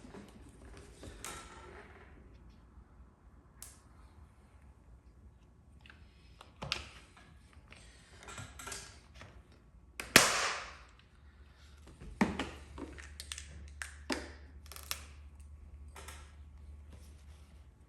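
Glue-pull paintless dent repair tools at work on a car panel, making a scattered series of sharp snaps and clicks; the loudest is about ten seconds in. A low steady hum runs under the second half.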